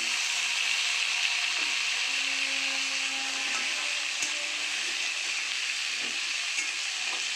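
Raw potato chunks frying in hot mustard oil in a steel kadai: a steady, loud sizzle that starts just as they go into the oil.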